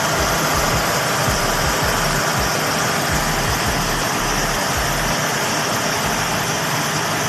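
Hyundai D4CC diesel engine idling steadily, with its crankshaft oil seal just replaced. The sound cuts off abruptly near the end.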